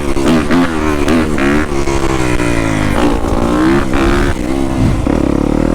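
Yamaha YZ250F dirt bike's single-cylinder four-stroke engine revving up and down with quick throttle changes. Near the end the pitch drops and holds steady.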